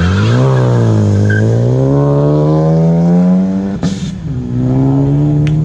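A sports car's engine through a loud exhaust, pulling up through the revs with the pitch climbing steadily for about three seconds. Near four seconds in there is a brief break, like a gear change, and it then runs on steadily at lower revs.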